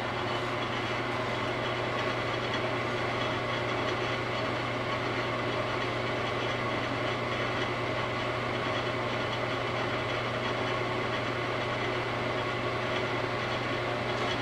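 Wood lathe running steadily with a constant low motor hum.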